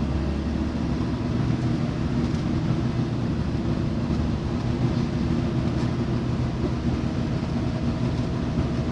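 Scania D9C nine-litre diesel engine of a Scania K94UB bus running steadily, with a low rumble that eases off just after the start.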